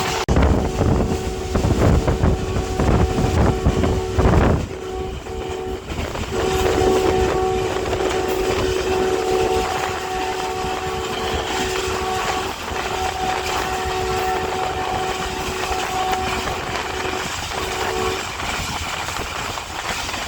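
Diesel locomotive's multi-note horn blown in long blasts with a couple of short breaks, stopping a few seconds before the end, over the rumble and clatter of the train running on the rails.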